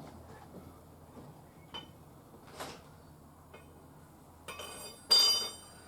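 A few faint clicks, then one loud ringing metallic clink about five seconds in, as of a metal object struck or set down.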